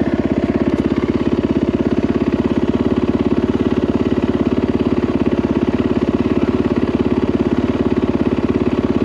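Yamaha WR450F dirt bike's single-cylinder four-stroke engine idling steadily, with a rapid, even pulse and no revving.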